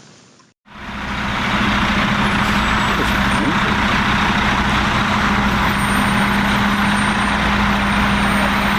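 Motor vehicle running steadily: a constant engine hum under a loud, even rush of road or wind noise, starting abruptly after a moment of silence.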